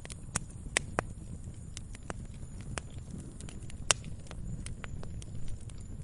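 Campfire crackling: irregular sharp pops and snaps of burning wood over a low steady rumble, with one louder pop about four seconds in.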